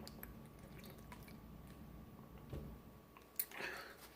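Faint chewing and small mouth clicks from someone eating, with one sharper click a little after three seconds in.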